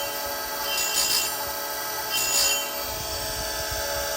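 Oregon 410-120 bench chain grinder running steadily with a CBN wheel. Twice, about a second and a half apart, it makes a short, high-pitched grind as the wheel passes over a chainsaw cutter. Near the end only the motor's hum remains.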